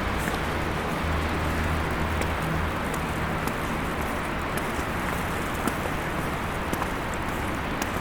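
Steady city street noise during a snowstorm: traffic with tyre hiss, and a vehicle's low engine hum that fades out about three seconds in.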